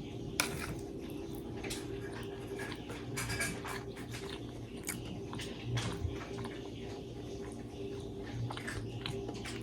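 A person chewing and eating close to the microphone, with scattered short wet clicks and smacks; a sharper click about half a second in. A steady low hum runs underneath.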